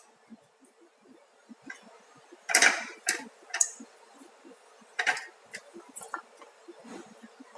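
Kitchen prep handling sounds: scattered knocks, clicks and clinks of utensils and containers. The loudest cluster comes about two and a half seconds in and another about five seconds in.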